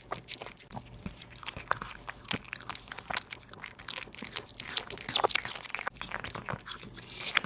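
A cat eating: close-up, irregular crunching and chewing with sharp bites.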